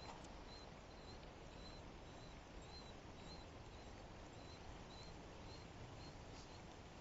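Near silence: faint outdoor background hiss with a faint high chirp repeated about twice a second.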